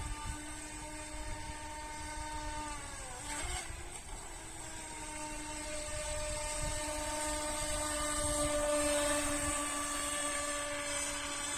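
Revell Hurricane radio-controlled speedboat's electric motor whining at high speed. Its pitch dips briefly about three seconds in with a short splashy rush, then holds steady, growing a little louder later on.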